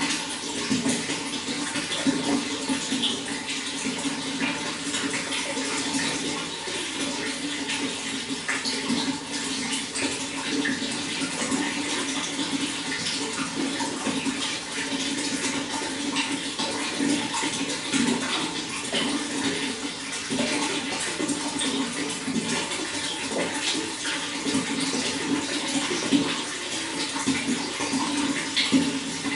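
Water running and splashing steadily, a continuous gurgling stream with many small splashes.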